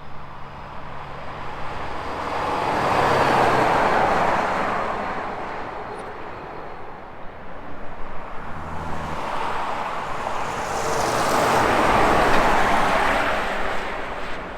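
Two highway vehicles passing one after another, each swelling up and fading away with tyre and engine noise, the first passing about three to four seconds in and the second near the end.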